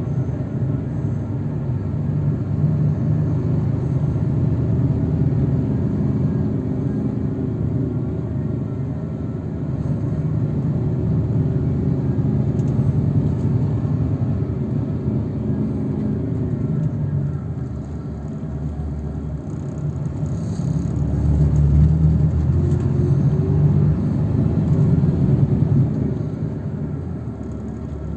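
Steady low engine and road rumble heard from inside a moving shuttle vehicle. It swells louder about twenty seconds in and eases near the end.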